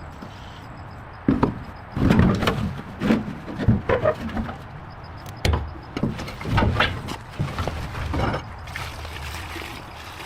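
A run of irregular knocks and bangs, a dozen or so over several seconds, some sharp and some duller, thinning out near the end.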